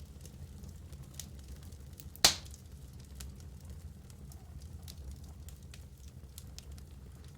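Wood fire burning in a fireplace: scattered small crackles over a low steady rumble, with one loud sharp pop from the logs a little after two seconds in.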